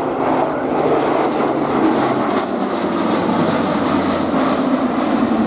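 Airbus A400M's four turboprop engines and propellers running at display power overhead: a loud, steady drone with a low hum that drops in pitch partway through.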